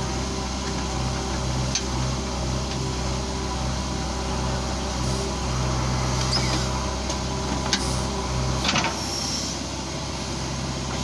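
Heavy diesel engine running steadily, with a few sharp metallic knocks, the loudest a little before the end.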